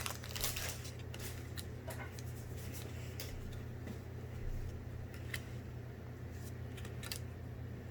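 Faint ticks and slides of trading cards being handled and flipped through by hand, a few scattered strokes over a steady low hum.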